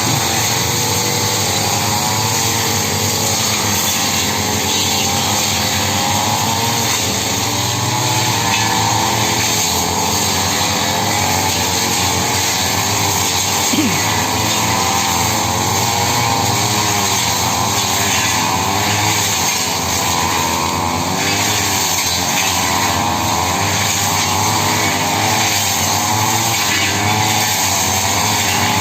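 Petrol brush cutter (grass trimmer) running steadily, its engine pitch wavering up and down as the blade takes load cutting through grass and brush.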